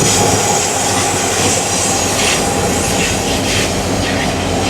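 BNSF freight train rolling past loudly, its wheels making a steady rumble on the rails with a high, thin squeal over it.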